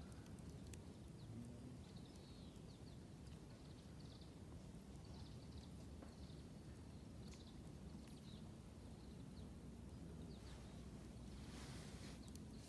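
Quiet outdoor ambience with faint, short high chirps repeating every half second to a second, like small birds calling, and a few sharp clicks.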